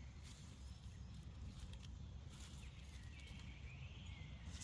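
Faint forest ambience: a low, steady rumble, a few soft clicks, and a bird calling faintly in the last second or so.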